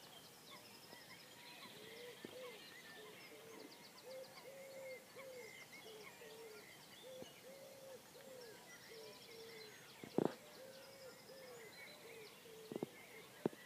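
Birds calling at dawn across still water: short low calls repeated over and over, with higher songbird trills and chirps above them, and one sharp knock about ten seconds in.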